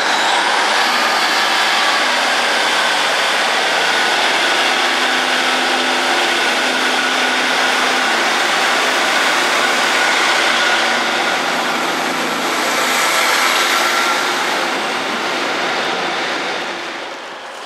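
Class 150 Sprinter diesel multiple unit drawing into the platform and running past close by: its diesel engines and wheels on the rails make a loud, steady noise, with a thin squeal running over it. The noise dies away just before the end.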